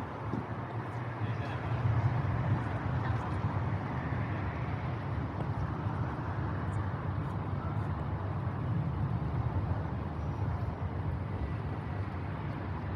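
Steady outdoor background noise with a low rumble, such as distant traffic or wind, and no clear bird calls standing out.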